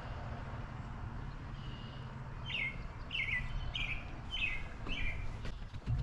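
A songbird calling, a series of five short notes, each sliding downward in pitch, starting about two and a half seconds in, over a steady low rumble.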